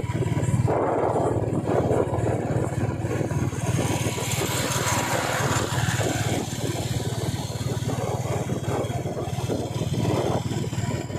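Royal Enfield motorcycle engine running steadily while riding, with a dense, low exhaust beat. A rushing hiss swells about four seconds in and fades a few seconds later.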